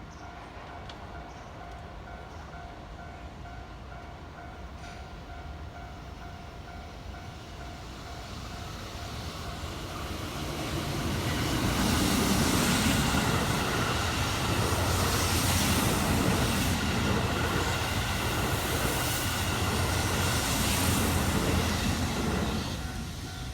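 A Keihan Main Line electric train passing. Its rumble and wheel-on-rail noise build from about a third of the way in, stay loud for some ten seconds, and fade near the end.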